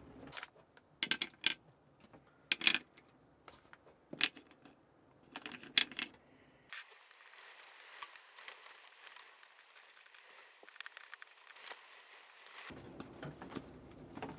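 A series of sharp clicks and clinks of small hard objects being handled, followed by about six seconds of steady hiss.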